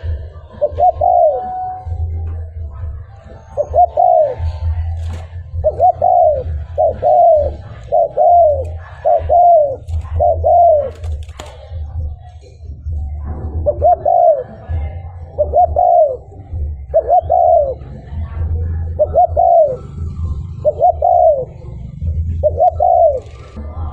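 Spotted dove cooing: a string of short, falling coo notes about one a second, in two runs broken by a short pause about halfway through, over a low rumble.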